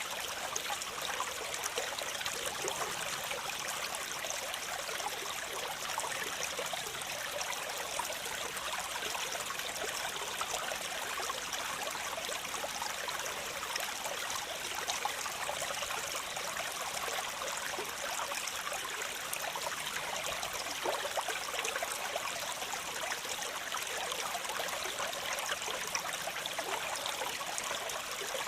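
Waterfall: water falling and splashing steadily, a continuous hiss mostly in the middle and high range with little deep rumble.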